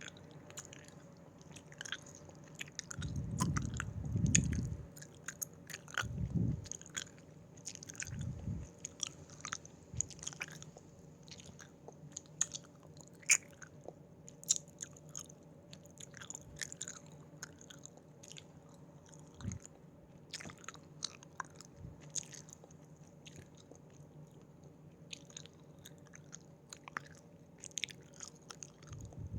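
Close-miked chewing of Haribo gummy candies: many short, wet, sticky mouth clicks, with a few low muffled thumps near the start.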